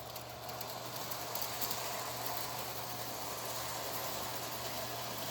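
Electric toy train running steadily around its track: a continuous mechanical whir and rattle from its small motor and wheels.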